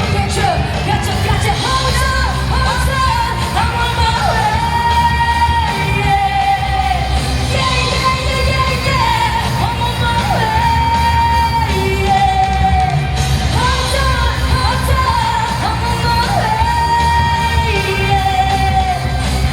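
A live pop band amplified through a PA system, with a lead vocalist singing long held notes that slide between pitches over a heavy, steady bass.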